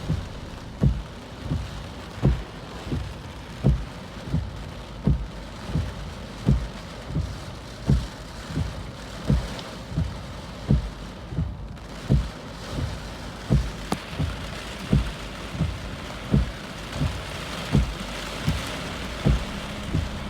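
Typhoon rain falling with a steady hiss, overlaid by regular dull thuds about one and a half times a second, some stronger than others.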